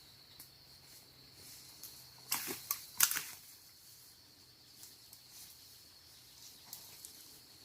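A quiet background broken by two short clusters of crackling clicks, a little over two seconds in and about three seconds in.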